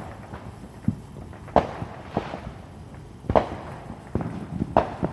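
Distant neighbourhood fireworks: about five sharp pops at irregular intervals, each with a short echoing tail, the loudest about 1.5 and 3.5 seconds in.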